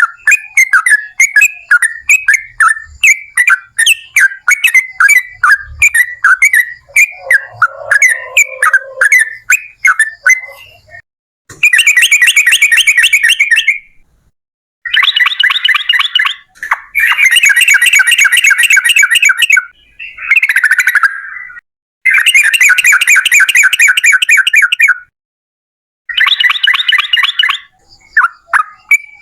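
Yellow-vented bulbul (trucukan) singing. For the first ten seconds or so it gives a string of short sharp chirps, about three a second. After that come long, fast rattling trills in bursts of two to three seconds, separated by brief pauses.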